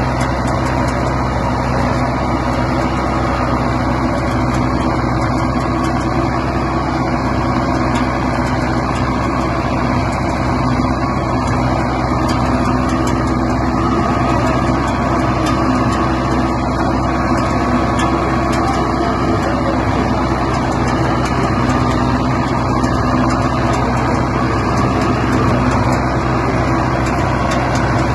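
Mahindra Arjun Novo 605 tractor's four-cylinder diesel engine running at a steady speed while working a seed drill.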